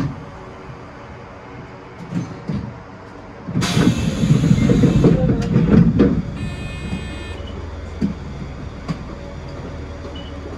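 Mizuma Railway electric train at a station stop: a steady low running hum, broken about three and a half seconds in by a loud rushing burst that lasts about two and a half seconds, followed by a short electronic tone of about a second.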